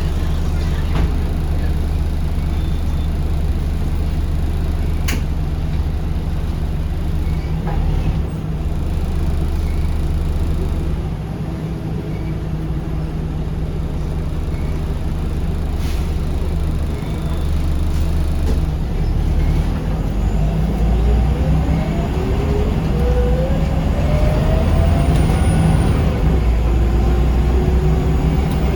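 Scania L94UB bus heard from inside, its rear-mounted five-cylinder diesel running with a steady low drone. The drone eases for a few seconds near the middle, then builds with a rising whine as the bus accelerates in the last third. A few sharp clicks and rattles come through along the way.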